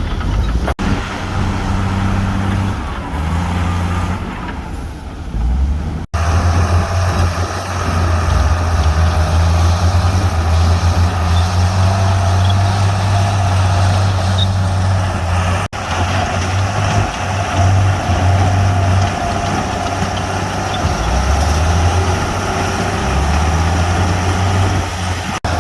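Heavy diesel engines of bulldozers and dump trucks working, a loud steady low drone. The sound breaks off abruptly for an instant a few times where clips are joined.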